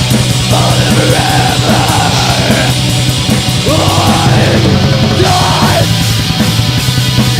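Metal song with distorted guitars over fast, dense drumming, and harsh yelled vocals in two phrases, one early and one past the middle.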